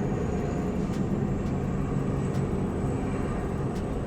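Steady low background rumble with a faint, thin high-pitched tone above it.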